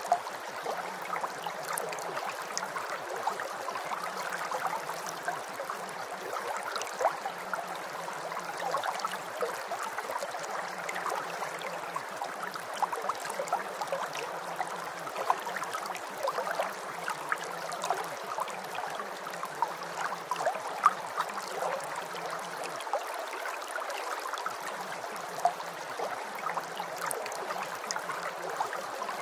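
Steady rain: a dense patter of drops with scattered sharper individual drop hits.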